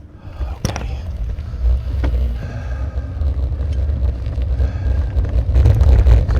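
Low rumble of wind and road vibration while riding a bicycle over a rough road, growing louder, with a sharp knock a little under a second in and another at about two seconds. The rattling is a fault the rider puts down to vibrating armrests or the DJI camera mount, without being sure which.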